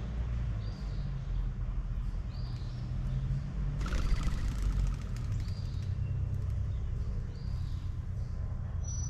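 Backyard birds calling: a short high call repeated every second or two, and a louder, harsher call lasting about a second, about four seconds in, all over a steady low rumble.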